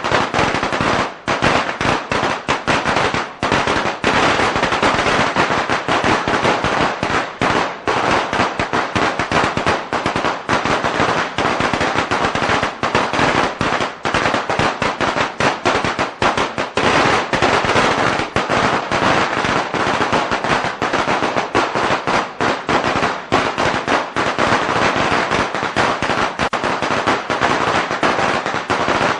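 A long string of firecrackers going off in a dense, rapid, continuous crackle of bangs.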